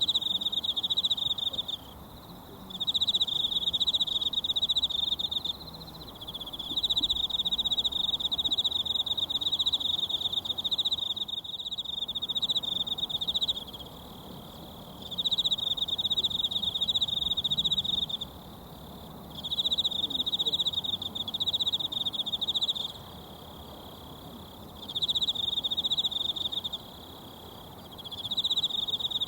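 An insect trilling loudly in repeated bouts of a few seconds each, with short pauses between them, over a faint, steady murmur of a mountain stream.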